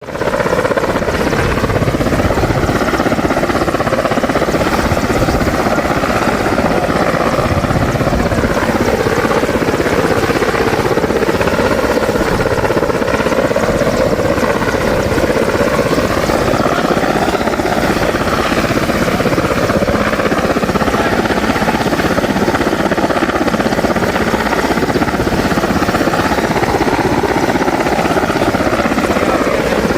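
Aircraft flying over an air show: a loud, steady rush of engine noise whose pitch slowly wavers up and down.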